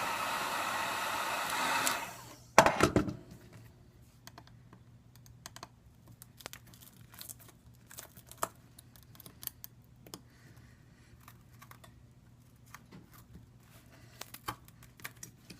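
Heat gun blowing steadily, then switching off about two seconds in. A loud clatter follows, then scattered light clicks and taps of small tools prying at the iPad 2's glass and frame.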